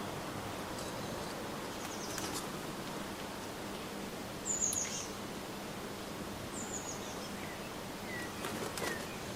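Garden songbirds calling at a nut feeder: a few short high chirps, then two brief high calls that fall in pitch, the first the loudest, and some faint short notes near the end, over a steady background hiss.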